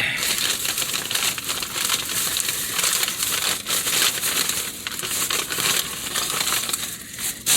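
Continuous close crinkling and rustling of crinkly packaging being handled right by the microphone, with many small crackles throughout.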